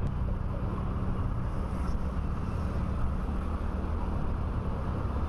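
Motorcycle engine running steadily while riding, with wind and road noise on a helmet-mounted action-camera microphone.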